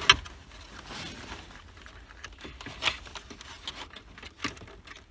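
Scattered clicks, knocks and rustling of plastic parts and wiring harnesses being pushed and pulled behind a car dashboard as an ignition lock cylinder assembly is worked loose; the sharpest click comes right at the start.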